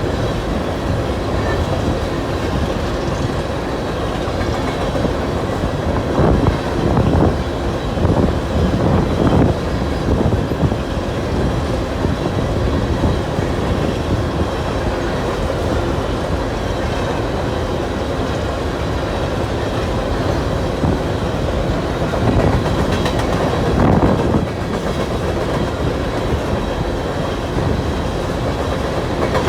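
Union Pacific coal train's hopper cars rolling past, steel wheels clacking over the rail joints in a continuous rumble, swelling louder a few times along the way.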